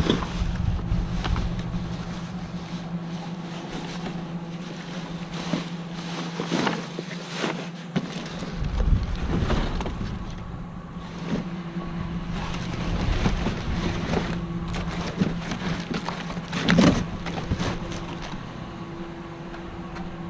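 Rummaging through a dumpster: scattered knocks, clatter and rustling of items being moved, the loudest about nine seconds in and near the end. Underneath runs a steady low machine hum, with some wind on the microphone.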